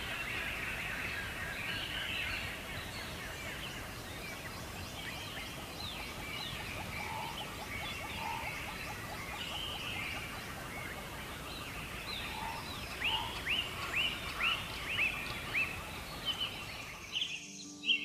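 Several wild birds singing together over a steady background hiss. Near the end comes a run of loud, falling call notes, about two a second, and then the hiss cuts off abruptly.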